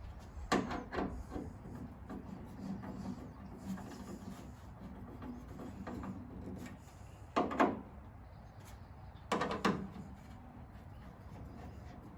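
Handling noises of parts being moved and rubbed, with a few short sharp clatters, the loudest two in the second half.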